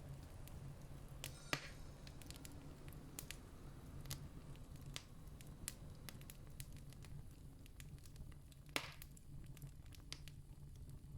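Campfire crackling: scattered small snaps of burning wood, with two louder pops about a second and a half in and near the end, over a steady low rumble.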